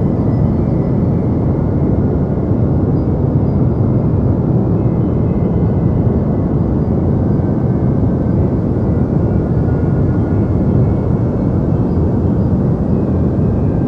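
Deep white noise for sleep: an even, unchanging rush, heavy in the low rumble with the highs rolled off.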